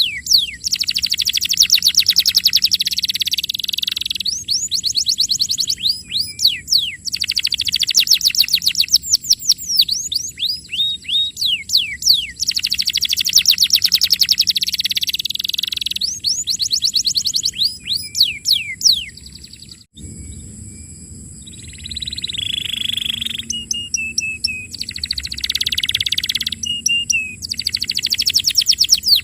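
Domestic canary singing in long phrases: very fast rattling trills alternating with rapid runs of downward-sweeping notes. About two-thirds of the way through it breaks off abruptly and a different song passage of whistled notes and trills follows.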